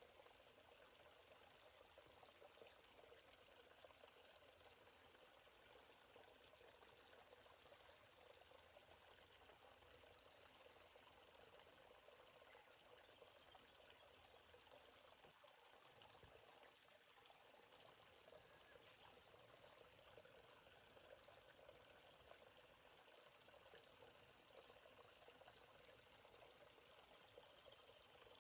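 Faint steady babbling of a forest stream under a continuous high-pitched insect chorus.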